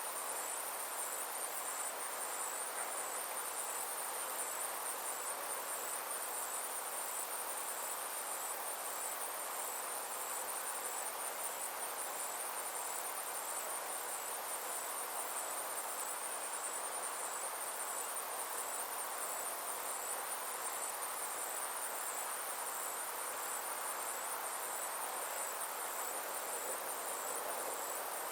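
Summer insects trilling steadily in a high, evenly pulsing chorus, over a steady soft rushing hiss.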